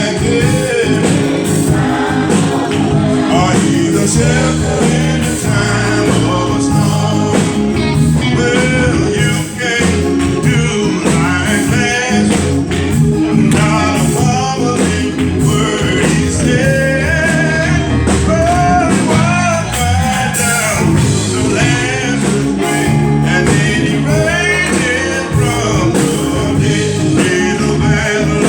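Live gospel praise-and-worship music: a band playing with a steady beat under singing voices.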